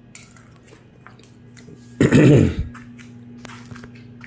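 A man clears his throat once, a short loud sound falling in pitch about two seconds in. Faint light clicks and a low steady hum run beneath.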